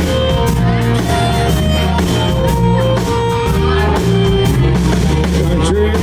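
Rock band playing loudly, with guitar over bass and drums.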